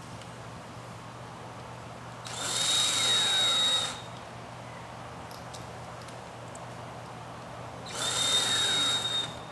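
Power drill driving stainless steel screws through a two-piece rubber clip and woven hurricane fabric: two runs of about a second and a half each, with a high motor whine and a pitch that sags as the screw bites in.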